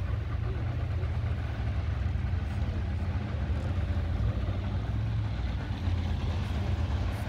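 A car engine idling steadily nearby, a deep low sound with no revving.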